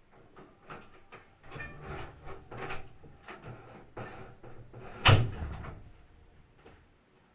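Irregular knocks and clatters, then one loud bang about five seconds in.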